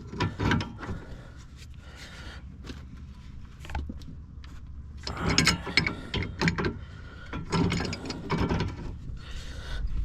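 Metal clicking and scraping in clusters of quick strokes, from a wrench turning a car's tie rod adjuster during a toe-in adjustment. There are bursts near the start and then two longer runs in the second half, with a quieter stretch between.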